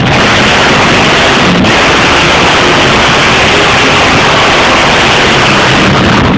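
Monster truck engines at high revs, a loud, dense, unbroken noise that overloads the recording.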